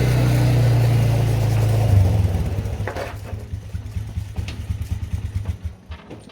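An engine running steadily for about two seconds, then falling away with an uneven pulsing beat as it fades.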